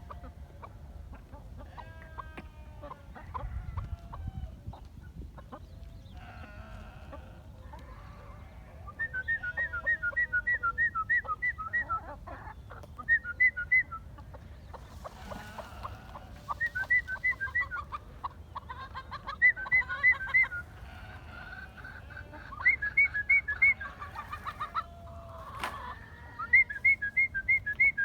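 Bird calls: a rapid run of repeated chirping notes comes about six times, each run lasting one to three seconds, with fainter scattered bird calls between them.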